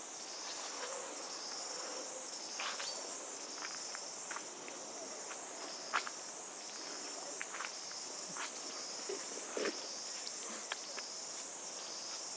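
Steady high-pitched insect chorus that swells and fades in an even pulse, with scattered brief chirps and clicks over it.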